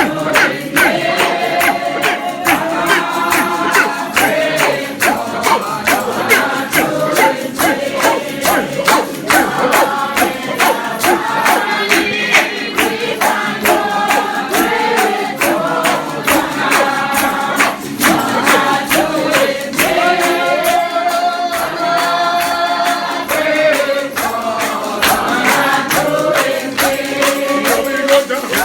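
Congregation singing a hymn together in chorus over a steady percussive beat.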